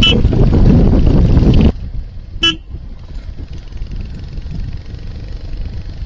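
Riding on a motorcycle in road traffic: heavy wind and road noise on the microphone that drops off suddenly a little under two seconds in, then a single short vehicle horn toot about a second later over quieter running noise.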